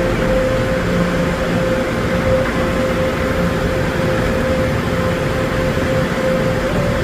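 Steady machine noise with a constant whine over a low hum, heard from inside a car, with no change in pitch or level.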